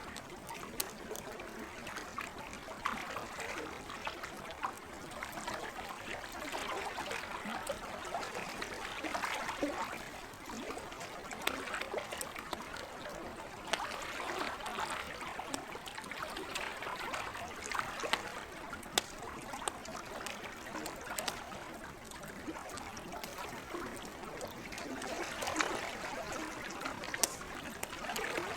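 Campfire crackling, with frequent sharp pops and snaps scattered throughout, over a steady wash of gently trickling and lapping lake water.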